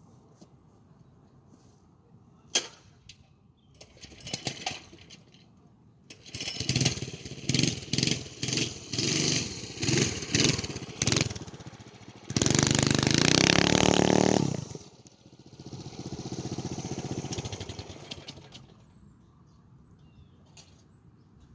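Motovox mini bike's 212 cc single-cylinder engine being ridden. It gives a series of short, sharp throttle blips, then one loud stretch at high revs of about two seconds that cuts off suddenly, followed by a softer, fading run.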